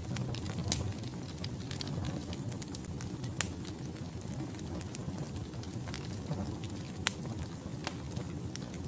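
Wood logs burning in a fireplace: a steady low rush of flame with scattered crackles and sharp pops, the loudest about three and a half and seven seconds in.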